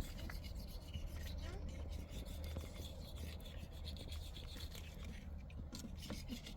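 Irregular rubbing and scraping, like hand work on a rough surface, over a steady low hum.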